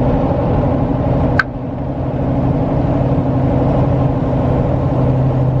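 Steady engine and road drone inside a moving vehicle, with a sharp click about a second and a half in.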